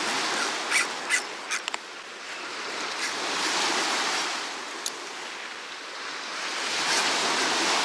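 Sea surf washing onto the beach, the noise of the waves swelling and fading twice, with a few sharp clicks in the first two seconds.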